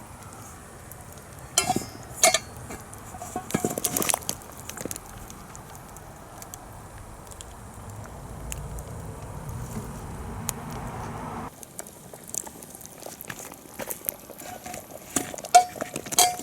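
Metal utensils clinking against cookware, several sharp clinks with a short ring, over a steady hiss that cuts off abruptly partway through.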